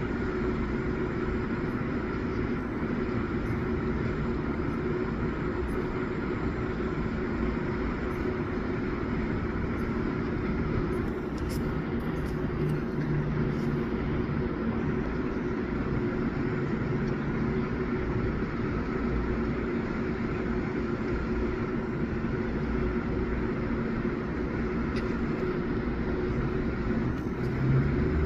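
Steady machine hum with a few constant tones over a low rumble, unchanging throughout, with a few faint clicks.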